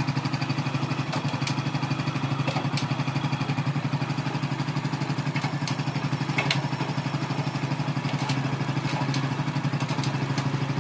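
Hero Splendor motorcycle's single-cylinder four-stroke engine idling steadily with a fresh timing chain kit fitted, running smoothly without chain rattle: the chain and timing are set correctly.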